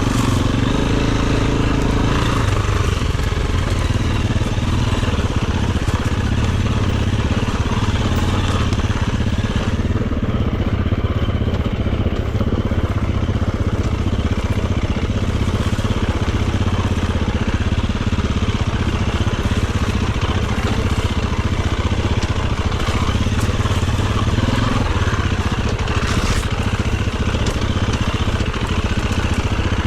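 Dirt bike engine running steadily while riding off-road, its pitch fairly even with no big revs, and a single sharp knock late on.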